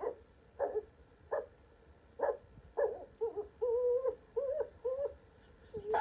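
A dog's voice: four short, hoot-like woofs spaced about a second apart, then a run of wavering, whining howls.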